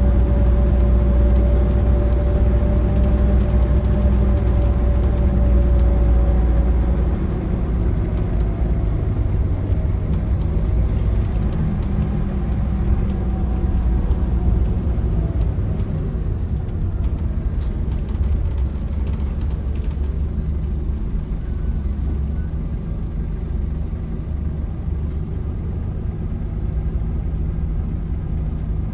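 Scania L94UB bus's DC9 five-cylinder diesel engine running under way, heard from inside the bus, with road rumble. The engine pulls harder for the first several seconds, then eases off to a quieter, steady run.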